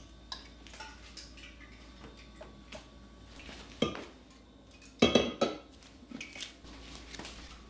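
Dishes and cutlery being handled and set down, making scattered light clinks. There is a louder clatter about four seconds in and a cluster of loud knocks a second later, the last of them ringing briefly.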